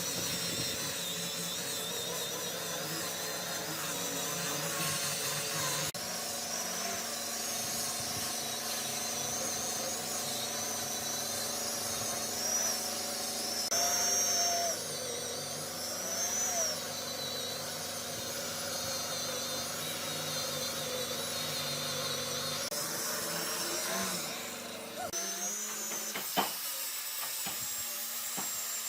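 A power tool running steadily with a high whine that wavers in pitch. Near the end the sound changes, with a couple of sharp knocks.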